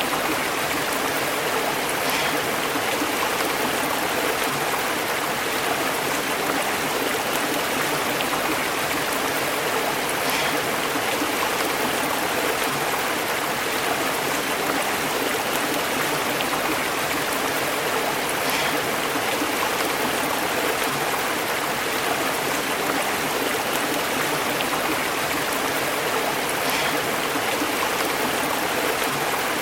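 Stream water flowing steadily and bubbling over rocks, an even, unbroken babble.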